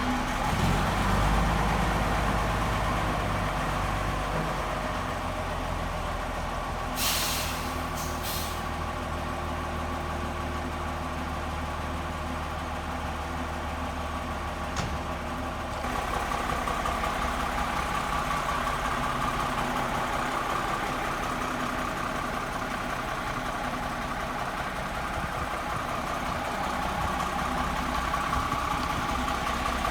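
Gardner 6LXC straight-six diesel of a Foden Fleetmaster lorry running steadily, its note changing about halfway through. About seven seconds in, compressed air hisses out twice in short bursts.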